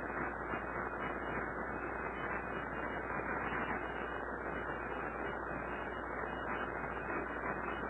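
Steady background noise: an even hiss with a low hum underneath, with no distinct sounds standing out.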